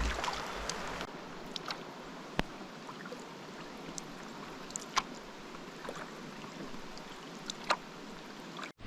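Steady hiss of rain falling on and around a canoe, with scattered sharp ticks of drops striking close by.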